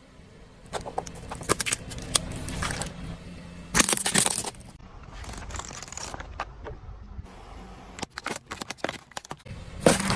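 Objects crunching, cracking and snapping as they are crushed under a car. Irregular sharp cracks are broken by a louder crunch about four seconds in, a quick run of cracks later on, and another loud crunch near the end.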